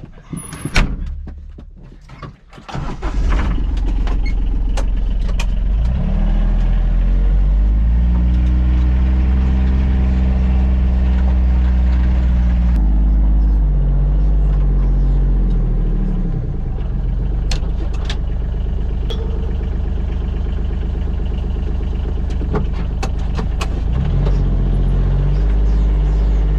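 John Deere Gator XUV 855D utility vehicle's small three-cylinder diesel engine coming in loudly about three seconds in, then running as it drives off, engine speed rising, easing off and rising again. Scattered clicks and rattles over it.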